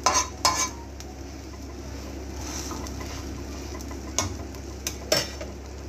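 A tomato omelette frying in oil on a flat iron tawa, a steady sizzle, with a few sharp clicks of a steel spatula against the pan at the start and again near the end.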